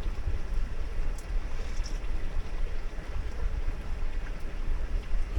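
Stream running steadily, with a low, gusting rumble of wind on the microphone.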